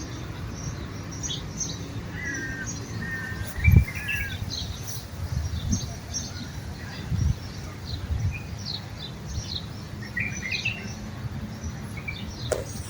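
Birds chirping and calling, with many short high chirps and a repeated two-note whistle, over a steady low rumble. A dull thump about four seconds in is the loudest sound, with smaller ones later.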